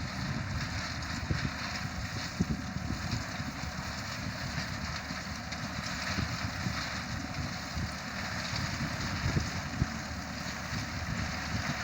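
Road-construction machinery running steadily, with wind buffeting the microphone.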